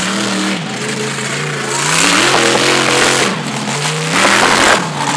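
Supercharged mud truck engine revving hard, its pitch climbing and dropping several times in quick succession. Twice, loud rushing noise swells over the engine.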